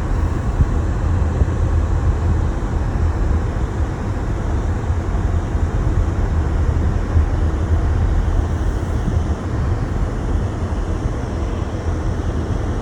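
A car driving on a snow-covered road: a steady low rumble of engine and tyres with no change in pace.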